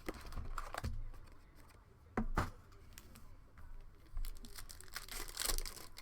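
A box of football trading cards being torn open, its wrapping and cardboard crinkling. A few sharp knocks come in the middle and a longer tearing crackle near the end.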